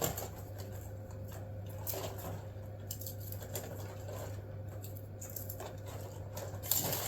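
Hands breaking up and arranging a fire-starter, crumpled newspaper and kindling in a fireplace: light rustling, crumbling and small clicks over a low steady hum, with a sharper clatter near the end.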